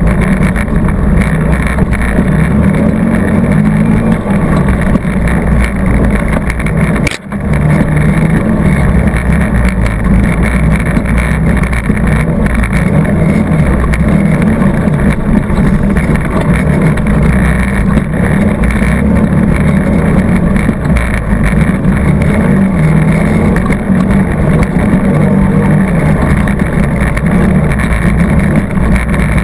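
ATV engine running steadily under load on a trail ride. It briefly drops out about seven seconds in.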